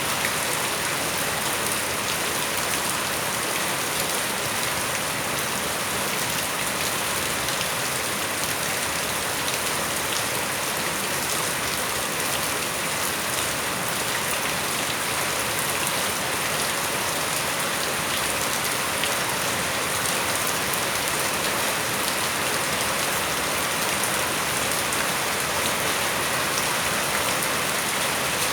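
Steady rain falling, with a dense patter of drops hitting surfaces; it keeps an even strength throughout.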